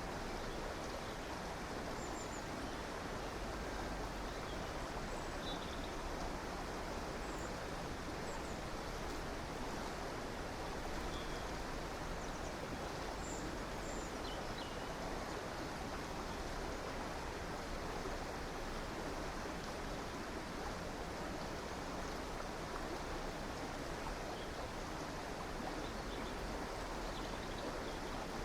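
River water flowing steadily, with a few faint, short bird chirps, mostly in the first half.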